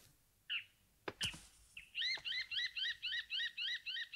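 Small bird chirping in a fast, even series of short rising-and-falling notes, about five a second, starting about two seconds in. A single chirp and a couple of sharp clicks come before it.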